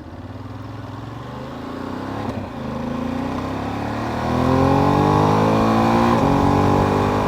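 Motorcycle engine accelerating under way, its pitch rising steadily for about four seconds and then holding at a louder, higher steady note.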